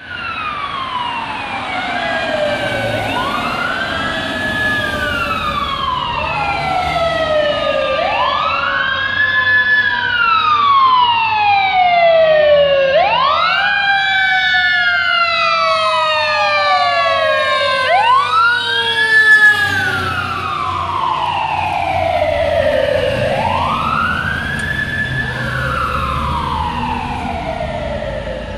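A 2004 Pierce Dash fire engine running with its sirens wailing: more than one siren tone sweeping slowly up and down in pitch, overlapping one another, over the low rumble of the truck. It grows louder toward the middle as the engine passes closest, then eases off.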